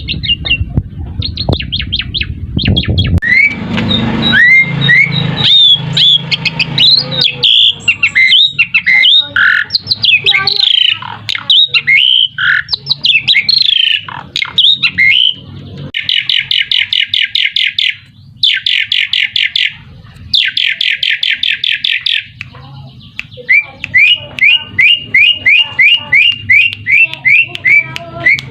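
Asian pied starling (jalak suren) singing a loud, varied song of whistled glides, chatter and harsh buzzy rattles, with runs of rapid repeated notes in the second half. A low rumble sits under the song for the first few seconds.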